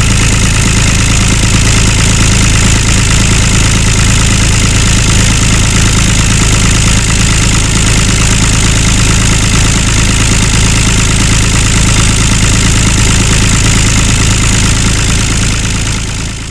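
Small motor of a DIY mini tractor running steadily with an even mechanical drone, fading out right at the end.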